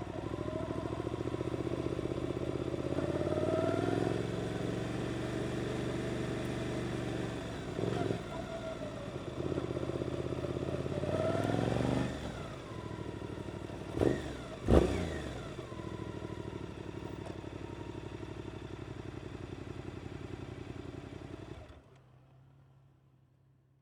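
Suzuki GSX-8S parallel-twin engine through an Arrow aftermarket exhaust, riding under way. Its note rises in several pulls, with drops in pitch between them. About halfway through, two loud short sounds stand out, then the engine settles into a steady note before the sound cuts off near the end.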